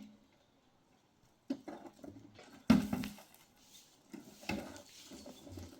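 A few sharp knocks with light clatter in between, the loudest about two and a half seconds in, after a quiet first second and a half.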